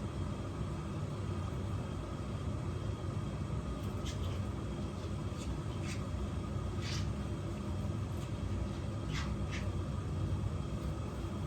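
Steady low rumble of water heating in an electric kitchen appliance, with a few faint short ticks through the middle.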